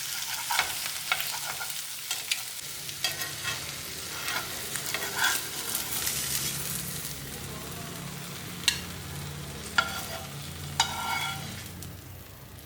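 Food sizzling in a pan while a utensil stirs and scrapes against it, with a steady hiss and scattered clicks; three sharp knocks come near the end.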